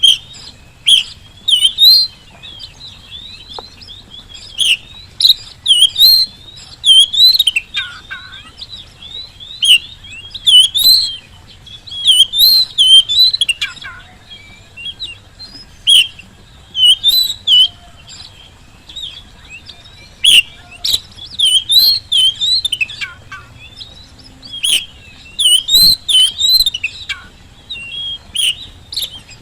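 Oriental magpie-robin (kacer) singing in full song: a loud, varied run of rapid chirps and high whistled phrases that sweep up and down, delivered in short bursts about once a second.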